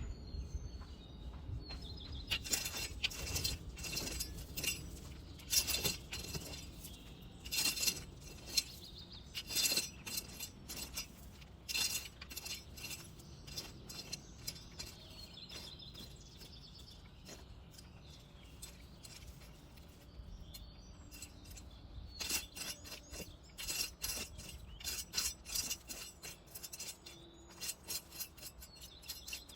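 Irregular sharp clicks and clinks coming in clusters, busy for the first dozen seconds, sparser in the middle and busy again near the end.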